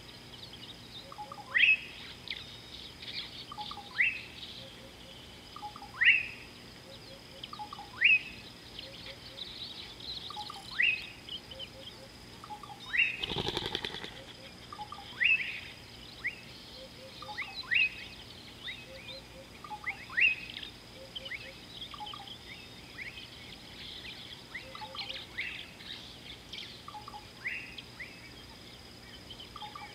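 Wild birds calling: one bird repeats a short, sharply rising call about every two seconds, with softer chirps between. A thin, steady high tone runs underneath, and there is a brief rush of noise about halfway through.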